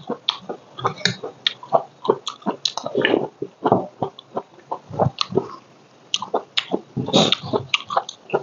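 Close-miked chewing: wet mouth smacks and clicks as a mouthful of rice and side dishes is eaten, irregular throughout, with a short lull about six seconds in.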